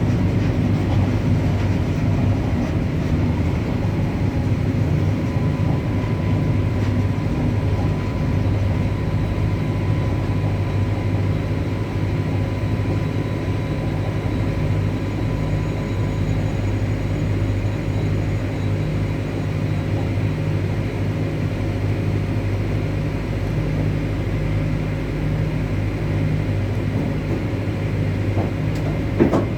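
WAG-9 electric locomotive running: a steady low electrical hum with a few constant tones over a rumbling running noise. A short knock comes near the end.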